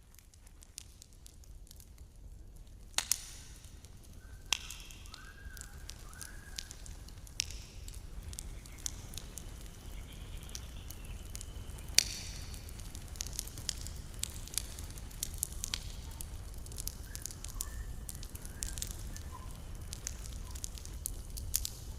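Wood campfire burning, crackling steadily over a low rumble, with a few sharp, loud pops. It fades in over the first few seconds.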